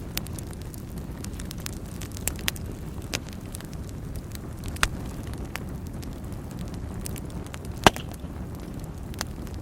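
Wood fire burning in a fireplace: a steady low rumble of flames with scattered sharp crackles and pops, the loudest pop about eight seconds in.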